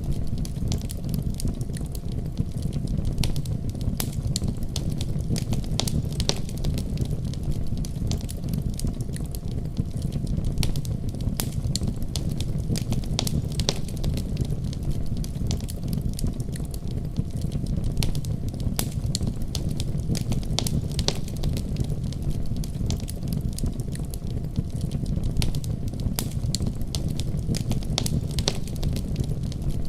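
Fireplace fire crackling with frequent sharp pops, over the steady deep rumble of a heavy snowstorm.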